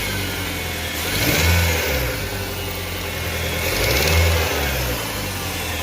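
Car engine idling and revved twice in short blips. It is running on a shorter belt that bypasses the worn air-conditioning compressor, and the loud noise that compressor made is no longer there.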